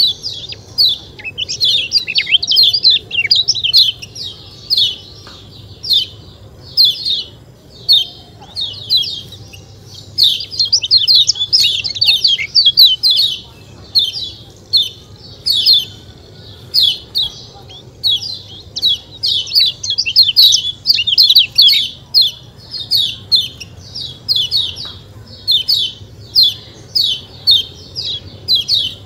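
Kecial kuning, a small white-eye, calling in quick bursts of high, sharply falling 'ciak ciak' chirps, the lively calling that keepers play to get caged birds singing.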